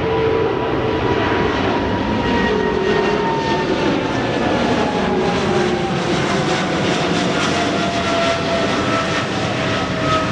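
Jet airliner's engines running loud and steady, a dense roar with a whine that slowly falls in pitch as the plane goes by.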